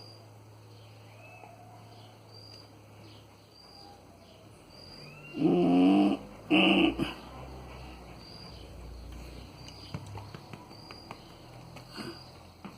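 A pet dog gives two loud, short pitched vocal sounds about five and six and a half seconds in, the first about a second long, the second shorter. Faint short high chirps repeat in the background.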